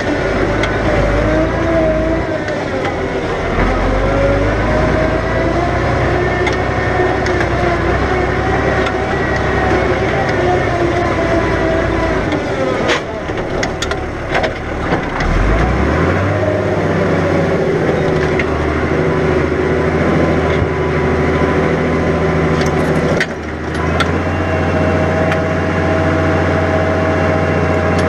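New Holland 100-90 tractor's diesel engine working under ploughing load, its note rising and falling as the engine speed changes. Several sharp knocks come about halfway through. After that the engine settles to a steadier note, with a brief drop in level near the end.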